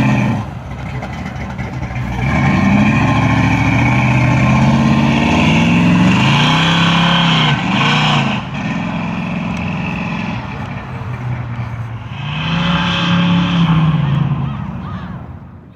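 V8 muscle car engine revving several times, the pitch rising and falling back with each blip. Between the blips it drops to a lower, quieter run, and it fades out near the end.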